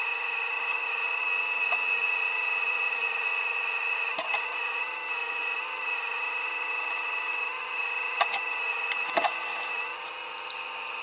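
A heavy digging machine running steadily with a high, even whine, with a few sharp knocks, the last two about a second apart near the end.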